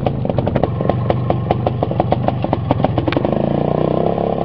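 IZh two-stroke motorcycle with sidecar running under way over rough, muddy ground, with a rapid clatter of knocks for the first three seconds or so.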